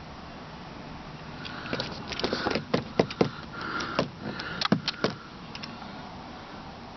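A quick run of sharp clicks and knocks with some rustling, from the car's interior fittings being handled and worked, between about 2 and 6 seconds in.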